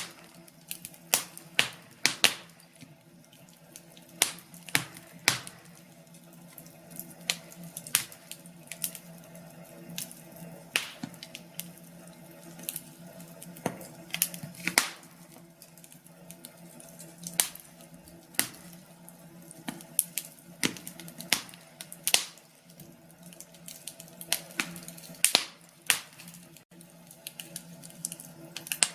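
Wood fire in a fireplace crackling, with irregular sharp pops from the burning logs, sometimes several close together, over a steady low hum.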